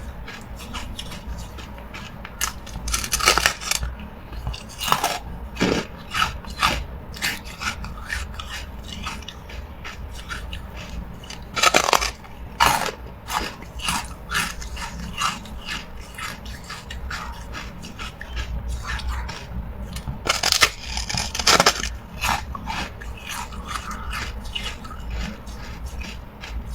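Hard carbonated ice being bitten and chewed close to the microphone: irregular sharp crunches and cracks, with louder bursts of biting about 3, 12 and 20 seconds in.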